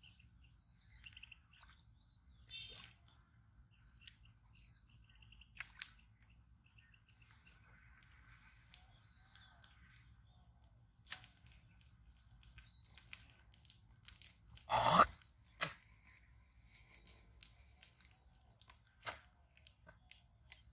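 Small birds chirping now and then over a quiet background, with scattered small clicks and rustles and one short, louder rustle about fifteen seconds in.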